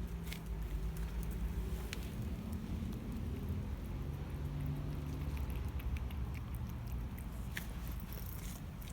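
A cat chewing food, with scattered short crunching clicks, over a low steady rumble.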